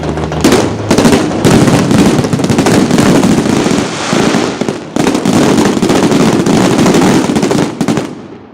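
Fireworks display going off in a dense, rapid barrage of bangs and crackles, very loud, dying away near the end.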